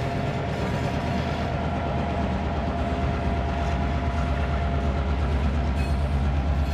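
Diesel-electric freight locomotive running as it passes, its engine rumble and a steady whine fading after a few seconds, then freight cars rolling by with wheels clacking over the rail joints in a steady rhythm.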